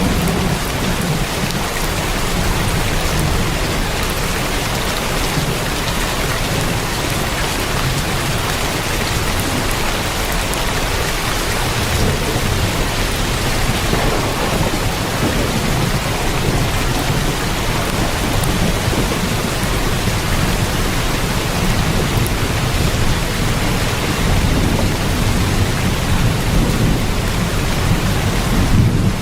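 Heavy rain drumming steadily on a tin roof, with slow low rumbling swells underneath.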